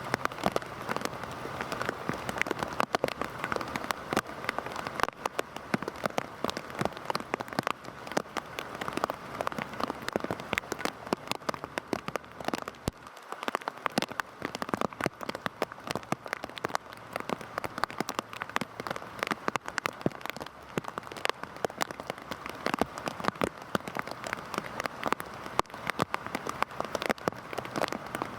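Heavy rain falling steadily, with many sharp individual drop hits ticking over a continuous hiss.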